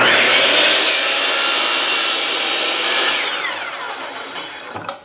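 Craftsman power saw cutting through a cedar fence picket, starting suddenly at full speed. About three seconds in, the pitch falls and the sound fades as the blade spins down.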